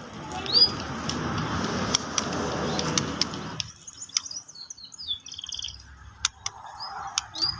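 White-rumped shama fledgling calling with short, high chirps and a few brief warbling notes. A noisy hiss runs under it and stops about three and a half seconds in.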